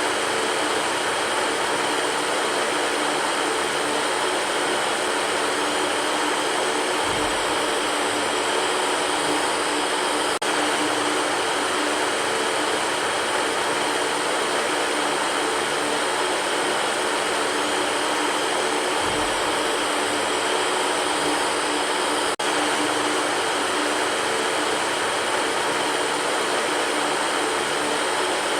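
Electric fan running steadily: an even rush of moving air with a low motor hum underneath. The sound cuts out for an instant twice, about ten seconds apart.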